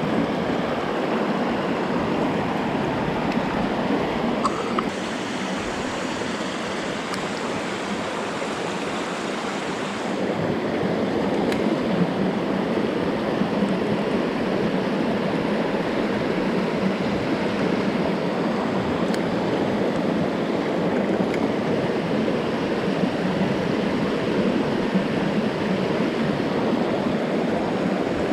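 Rushing water of a mountain stream, a steady rush that drops a little in level for a few seconds about five seconds in and then returns.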